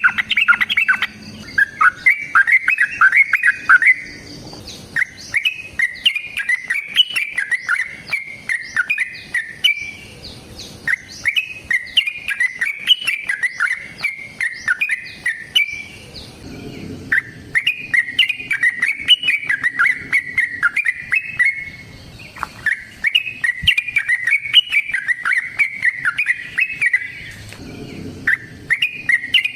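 Yellow-vented bulbul (trucukan) singing its long, fast chattering song in repeated bouts of several seconds, separated by short pauses.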